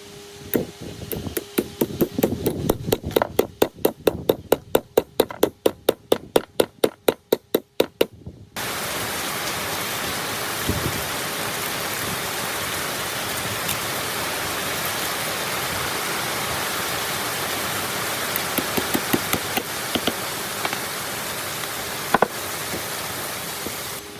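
Rapid hammer blows on metal, about four a second, for roughly eight seconds. They stop abruptly and give way to a steady, even hiss with a few clicks near the end.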